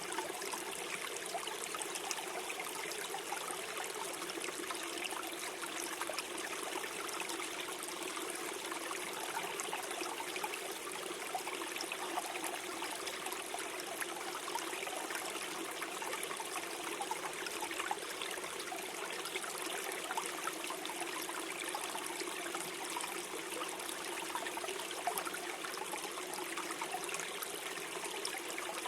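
Small forest stream flowing and gurgling over stones, a steady babble of water with many small splashes.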